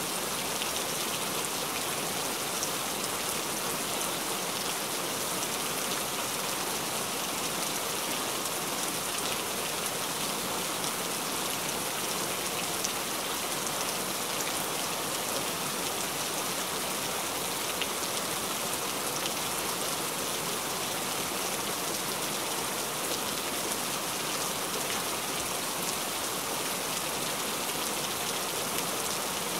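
Steady rain: an even hiss of many falling drops, with a few sharper drop ticks here and there.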